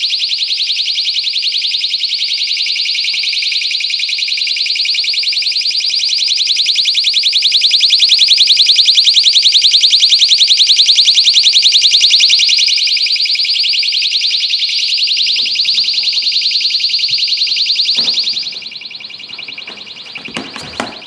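Personal safety alarm shrieking with a fast warble, loudest in the middle. About 18 seconds in it drops sharply, muffled as it is buried in insulation, with a few handling thumps near the end.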